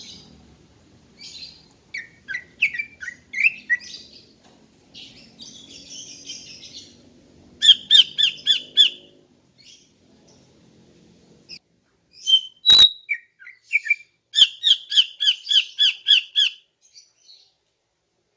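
Female green leafbird (cucak ijo) calling: scratchy chattering notes, then two quick runs of repeated clear notes, the second one longer. A single sharp click sounds just before the second run.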